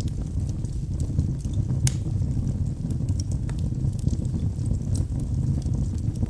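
Wood fire in a fireplace burning with a steady low rumble and scattered sharp crackles from the logs, one louder pop about two seconds in.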